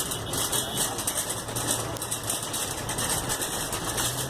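Steady low hum of a running engine, with a constant noisy background.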